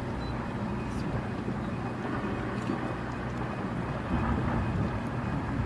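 A steady low engine hum under a bed of outdoor noise, with faint voices in the background.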